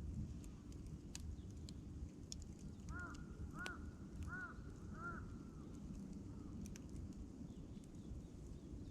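Campfire crackling, with scattered sharp pops over a low steady rumble. A crow caws four times in quick succession about three seconds in.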